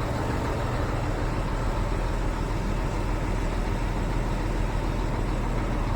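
Scania R 360 truck's diesel engine idling steadily.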